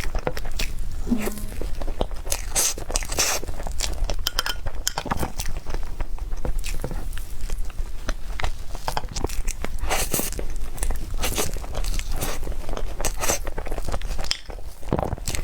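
Close-miked eating of cake: bites and chewing with many short, irregular crackly clicks and mouth sounds, over a steady low hum.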